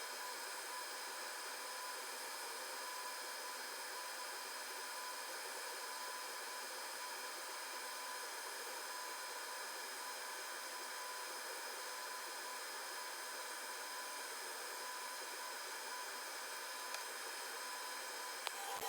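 Fume extractor and laser machine running while the laser burns glue off an iPhone's back glass: an even hiss of moving air with a few faint, steady high tones. A small click near the end.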